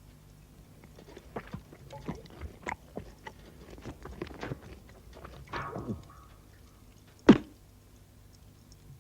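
Scattered small clicks and crunchy knocks, with one loud thump a little past seven seconds in.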